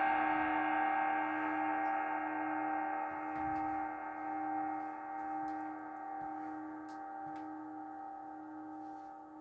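A gong or singing bowl ringing out after a strike, its many overtones slowly fading with a slight wavering.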